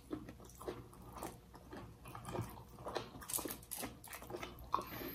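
Close-up eating sounds: two people chewing baked fish with their mouths, giving many soft, irregular wet smacks and clicks.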